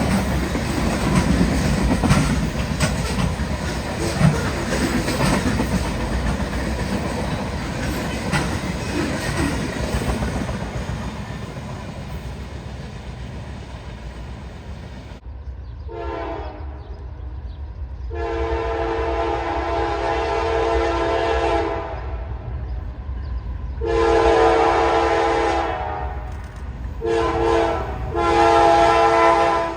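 A train passing on the rail line with a steady rumble and wheel clatter that fades away over the first half. Then a locomotive horn sounds a series of blasts: two long, a pause, then a long, a short and a long.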